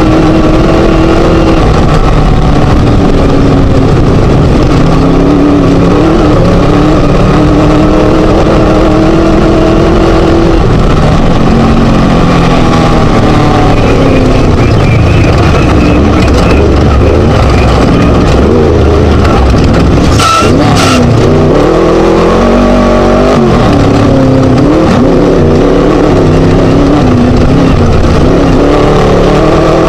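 Class 1 desert race buggy's Scat V4 engine running hard, its pitch rising and falling again and again with throttle and gear changes. Two sharp knocks come about two-thirds of the way through.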